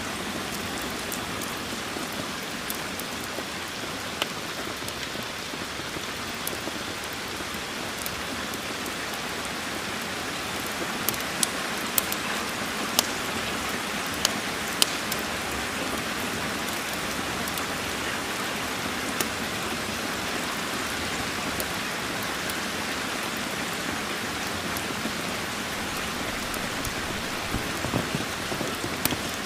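Steady rain falling, with scattered sharp clicks, several of them close together around the middle.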